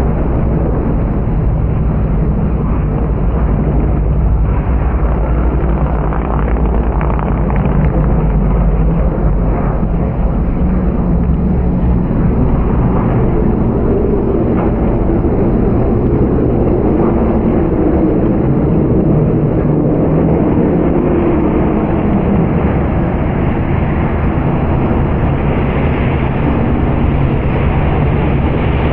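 Engines of stock race trucks running at speed around the oval in a steady, loud, continuous drone.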